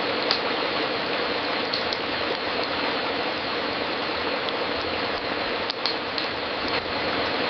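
Wood fire crackling in a fireplace: a steady hiss with a few scattered sharp pops and snaps.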